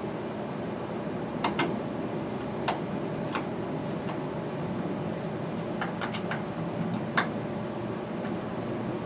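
Scattered light clicks and taps of hand work on a truck sun visor's mounting hardware, over a steady low hum.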